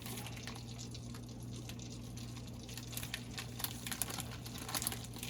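Steady low electrical hum, with scattered light clicks and crackles that come thicker in the second half.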